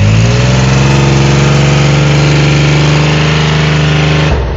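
Toyota 4x4 engine revved hard just after being restarted with water in it, blowing water out of the exhaust. The revs climb at the start, hold steady, and drop suddenly near the end. The owner hears the bottom-end bearings rattling from water sucked into the crankcase.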